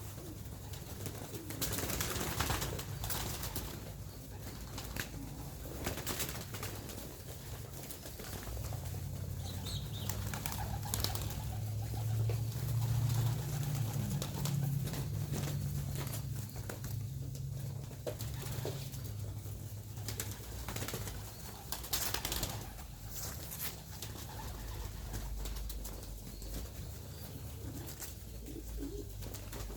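Young racing pigeons cooing at the loft, a low steady sound, with several short sharp wing-flap bursts.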